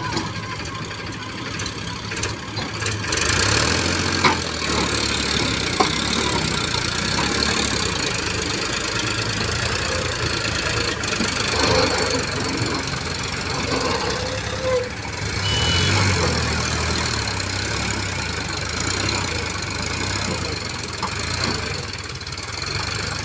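Heavy diesel engines of a tractor and loader running steadily, getting louder about three seconds in and swelling again near the middle.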